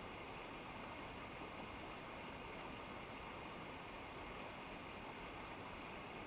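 Steady, even rush of flowing water from a mountain river or cascade.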